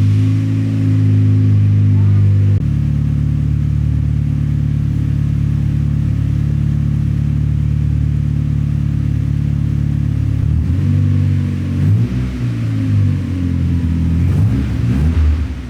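Turbocharged Mazda Miata engine running through a freshly welded custom exhaust with a small cylinder-style muffler, just after starting. About two and a half seconds in, the idle drops to a lower, steady note. From about ten seconds on it turns uneven, with a few small rises and falls in pitch.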